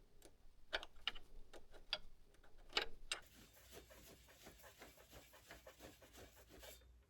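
A few sharp clicks, then a run of quick, even mechanical ticks lasting about three and a half seconds that stop shortly before the end.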